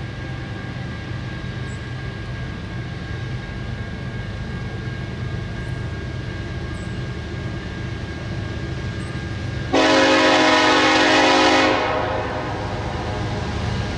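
Diesel locomotive air horn sounding one long blast of about two seconds, a chord of several steady tones that starts abruptly and cuts off. Under it the low rumble of an approaching train grows slightly louder.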